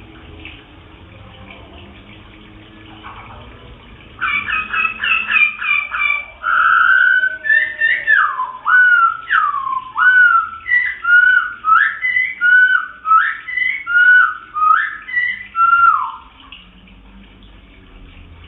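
A caged songbird, a wambi, whistling its song: a fast run of short notes about four seconds in, then a string of about a dozen loud slurred whistles, each dipping and rising, stopping a couple of seconds before the end.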